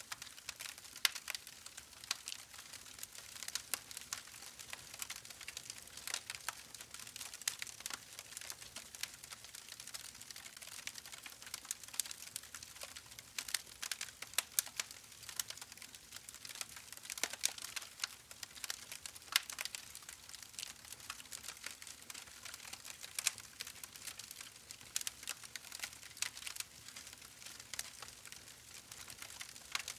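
Wood fire burning in a fireplace, crackling steadily with frequent small, irregular pops and snaps over a soft hiss.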